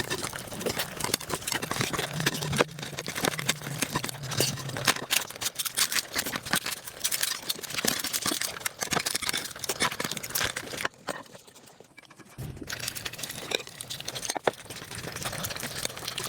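Eating sounds sped up to five times normal speed: a dense, rapid run of chewing clicks and crinkling, with a short lull about eleven seconds in.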